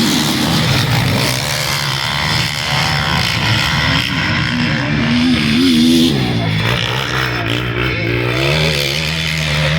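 A pack of motocross bikes accelerating hard away from the starting gate, engines revving with their pitch rising and falling.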